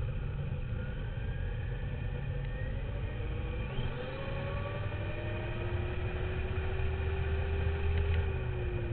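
RC dirt bike's motor whining, its pitch rising and falling as the throttle changes, over a heavy low rumble of wheels, terrain and wind on the onboard camera.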